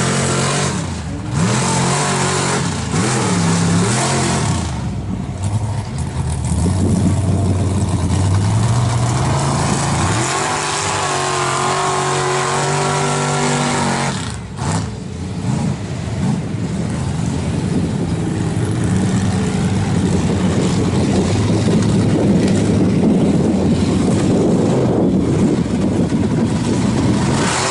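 Big-block V8 engine of a mega mud truck revving hard under load, its pitch climbing and falling again and again, with a brief drop in revs about halfway through.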